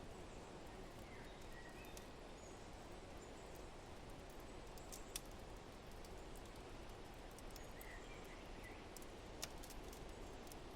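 Wood fire crackling, with scattered sharp pops, two louder ones about five and nine seconds in, over a steady low rush of wind; a few faint bird chirps come and go.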